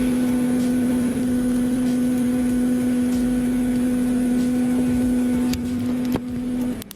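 Steady electrical machine hum with one constant low tone, which cuts off shortly before the end. A couple of light clicks come near the end.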